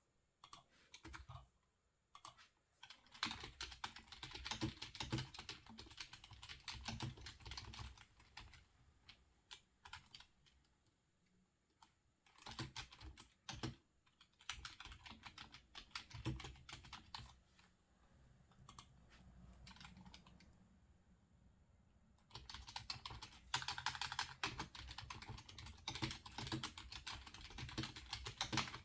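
Typing on a computer keyboard, soft and quick, in several runs of rapid keystrokes separated by short pauses.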